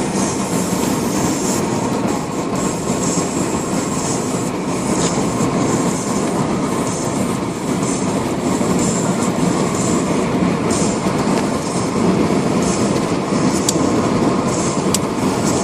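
Steady road and engine noise inside a moving car's cabin, with two faint ticks near the end.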